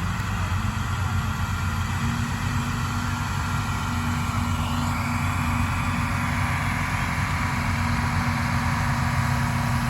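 Pulling tractor's engine running steadily under load as it drags the weight sled, growing slightly louder toward the end.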